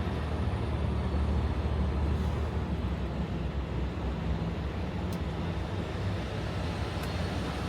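Semi truck's diesel engine running with a steady low hum.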